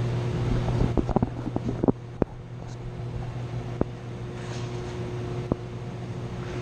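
Metal parts and tools clinking and tapping: a quick run of clicks and knocks, then a few single sharp clinks, as bolts and the pump strainer housing are handled during reassembly. A steady low machinery hum runs underneath.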